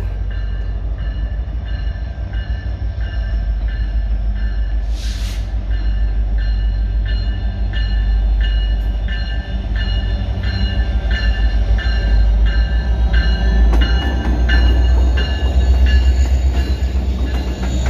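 Freight train with several diesel-electric locomotives approaching and passing: a deep engine rumble that grows louder as the locomotives come alongside near the end. A warning bell rings steadily about twice a second from about five seconds in, with a short hiss around its start.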